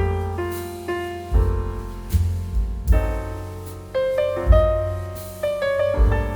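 Background piano music: notes struck and fading, with a deep bass note about every second and a half under a slow melody.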